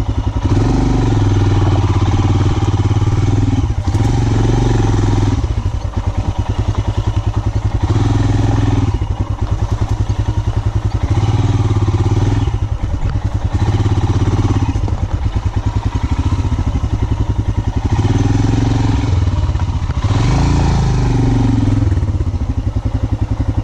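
Royal Enfield Himalayan 411's single-cylinder engine pulling up a rough off-road climb, the throttle opened and eased again every second or two.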